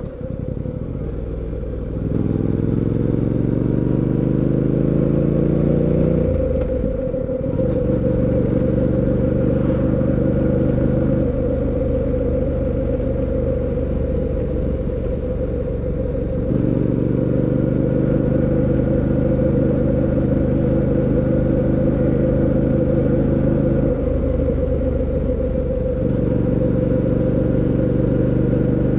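2024 Fantic Caballero 700 Scrambler's 689 cc parallel-twin engine under way on the road. Its note climbs steadily under acceleration about two seconds in, drops sharply a few seconds later as it shifts up, then runs on at a steadier pitch with the throttle opening and easing.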